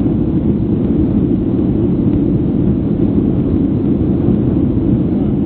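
Steady low roar inside the cabin of a Boeing 737-800 in flight, made by its CFM56 turbofan engines and the air rushing past the fuselage.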